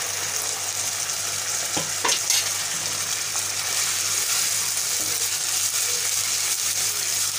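Raw chicken pieces, sliced onion and green chilies sizzling steadily in hot oil in a wok while a spatula stirs them, with a few brief scrapes about two seconds in.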